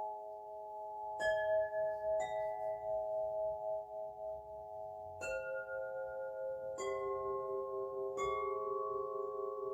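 Singing bowls struck one after another, five strikes at different pitches. Each tone rings on and layers over the ones before it.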